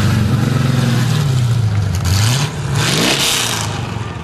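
Car engine running loudly at a fast idle, then revved once: the pitch dips and then rises quickly about two and a half seconds in.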